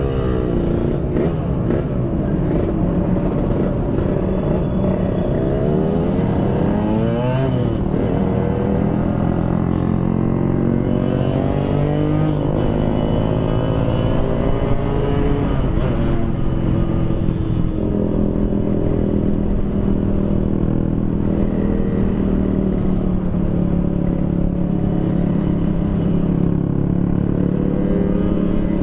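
Yamaha RX-King's 135cc two-stroke single-cylinder engine running through an aftermarket PDK exhaust while riding: the pitch climbs and drops back several times as it accelerates through the gears, then holds steadier at cruising speed.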